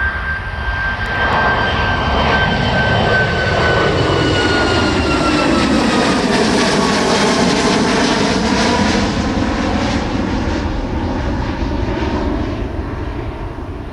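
Jet airliner's engines at takeoff power, passing by. The roar builds to a peak mid-way and eases off near the end, while the engine whine slides down in pitch as the plane goes past.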